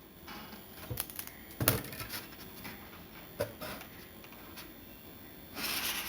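Handling noise from working thermocol foam pieces by hand: scattered light clicks and taps, the loudest about a second and a half in, then a brief scratchy rustle near the end.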